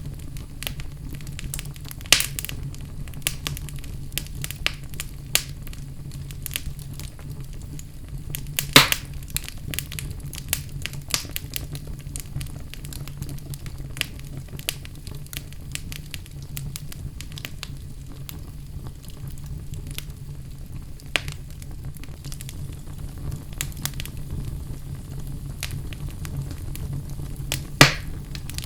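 Wood fire burning in a fireplace: a steady low rumble of the flames under constant crackling, with irregular sharp pops. The loudest pops come about two, nine and twenty-eight seconds in.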